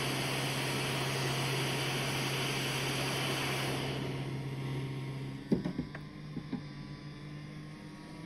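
A steady blowing, motor-driven noise with a low hum that dies away about four to five seconds in, followed by a few sharp clicks.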